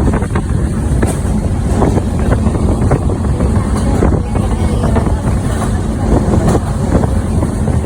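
Heavy wind buffeting the microphone over a loud, steady low rumble of a moving vehicle.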